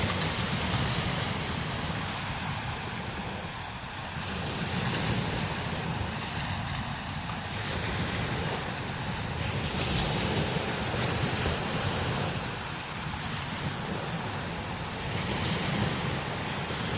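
Strong desert wind blowing in gusts that swell and ease every few seconds, with a deep rumble of wind buffeting the microphone under a steady hiss of blowing air and sand.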